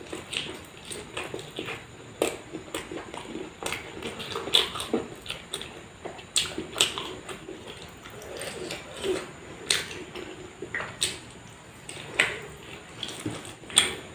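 Close-miked eating sounds: a person chewing and smacking food, with irregular sharp wet clicks and smacks a few times a second.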